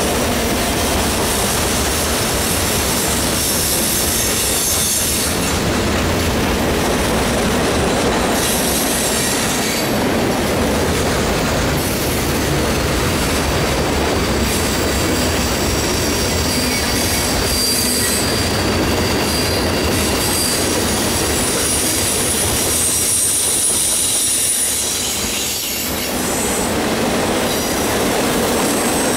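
Freight train cars rolling past close by on a curve: steady, loud wheel-on-rail noise, with high-pitched wheel squeal coming and going.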